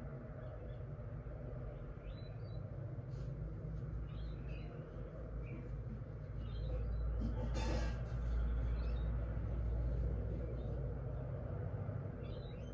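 Small birds chirping faintly now and then over a steady low rumble that swells for a few seconds past the middle, with a brief hiss just before the swell.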